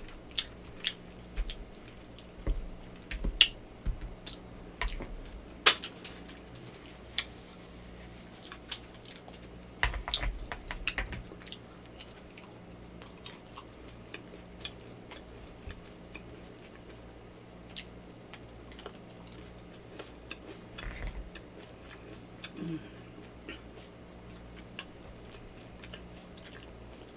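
Close-miked eating sounds from a person chewing yakamein noodle soup: wet chewing, smacks and sharp mouth clicks. They come thick for the first dozen seconds, then thin out to occasional clicks.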